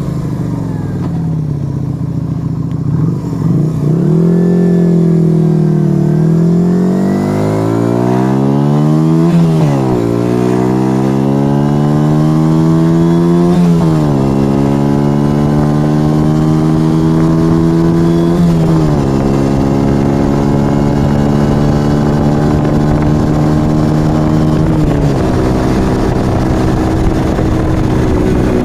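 Yamaha XV125 Virago's small air-cooled V-twin through a Turbo Kit aftermarket exhaust, accelerating through the gears. Its pitch climbs in each gear and drops sharply at each of four upshifts.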